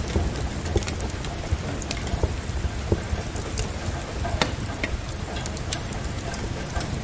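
Steady rain mixed with a crackling wood fire: an even hiss and low rumble, with scattered sharp pops and clicks.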